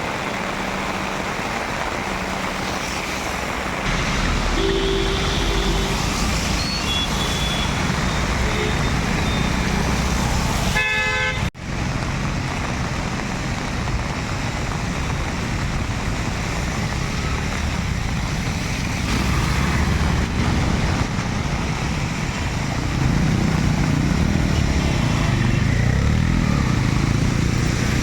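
Road traffic with engines running and car horns tooting briefly, once about five seconds in and again near eleven seconds, over a steady wash of noise. The sound drops out for an instant just after the second horn.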